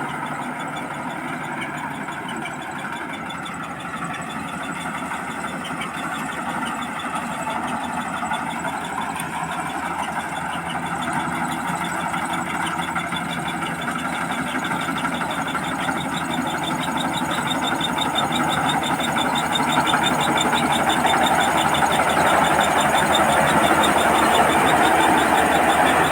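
Combine harvester running steadily while harvesting rice: a dense engine and machinery sound that grows louder through the second half.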